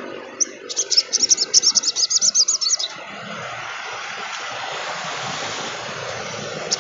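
Sogon trotol, a sunbird-family bird, singing a fast string of high, sharp chirps for about two seconds. The song breaks off, leaving a steady hiss.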